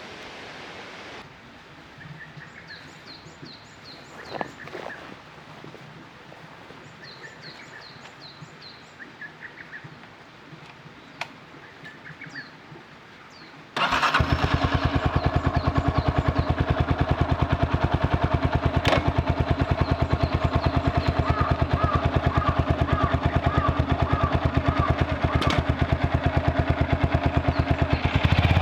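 Birds chirping in short repeated calls over a quiet outdoor background. About halfway through, a Honda CB223S motorcycle's single-cylinder engine comes in suddenly and runs steadily at idle with an even, rapid pulse.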